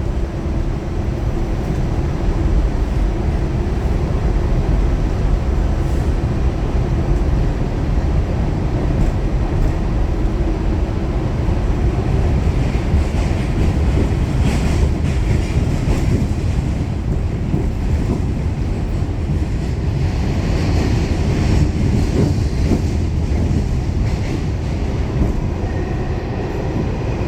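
Pullman Standard R46 subway car running between stations: a steady rumble of wheels on rail, with a faint motor hum at the start and again near the end.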